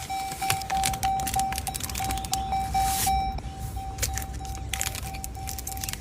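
An electronic beep repeating about four times a second, with irregular clicks and crackles of handling over it.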